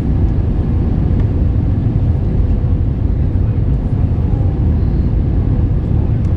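Steady low rumble of airliner cabin noise aboard an Airbus A321 in flight, from its engines and the airflow over the fuselage, with a faint steady tone running under it.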